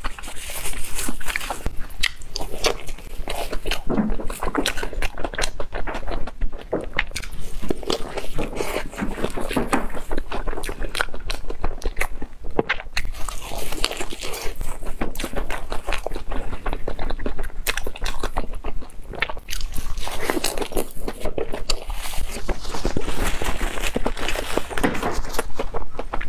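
Close-miked biting and chewing of sugar-dusted fried red bean puffs, the fried crust crunching with many sharp crackles.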